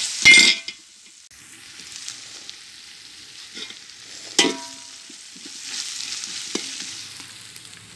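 Sliced onions and ginger-garlic paste sizzling in hot oil in an aluminium pot while a metal slotted ladle stirs and scrapes the pot. Two louder clanks of the ladle against the pot, one just after the start and one about four and a half seconds in, the second ringing briefly.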